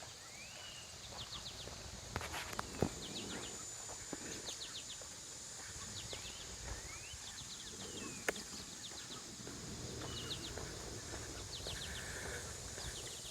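Birds singing: short groups of quick, repeated high chirps and a few rising chirps every second or two, over a steady faint high hiss. A few sharp clicks, likely footsteps on the path, come through, the loudest about two to three seconds in and near eight seconds.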